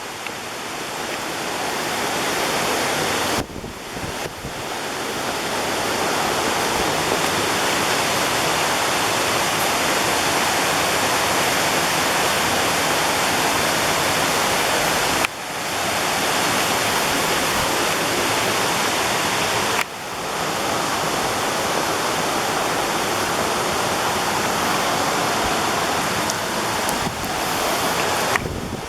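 Waterfall rushing: a loud, steady roar of falling water that drops out and comes straight back three times.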